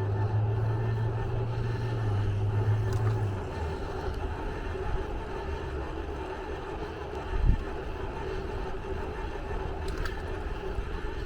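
Steady mechanical running noise, likely a vehicle, with constant tones. A low drone drops out after about three seconds, and a single thump comes a little past the middle.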